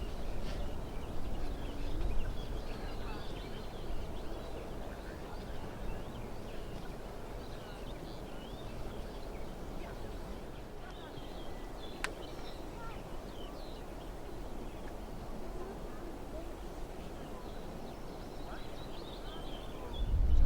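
Outdoor ambience: small birds chirping over a steady low rumble, with a single sharp click about twelve seconds in.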